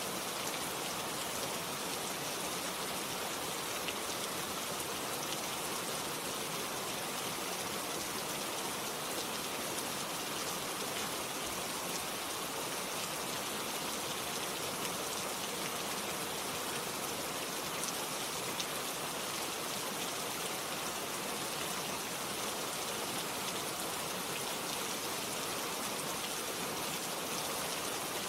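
Steady rain falling, an even hiss of many drops with occasional small distinct drop ticks.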